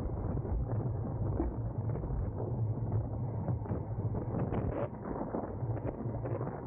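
Wind rushing over the microphone of a racing road bicycle's onboard camera, with the bike's tyres and drivetrain rattling underneath and a few sharp clicks from about four and a half seconds in.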